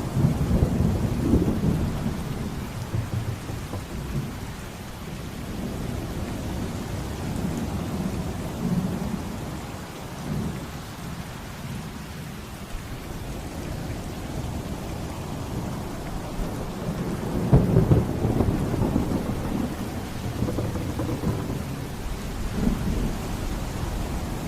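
Thunderstorm: steady rain with rolling thunder. One roll swells right at the start and a louder one comes about three-quarters of the way through.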